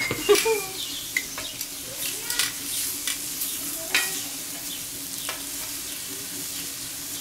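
Shrimps and bratwursts sizzling steadily on a hot steel fire plate, with sharp metal clicks every second or so as grill tongs tap and scrape the plate while turning the shrimps.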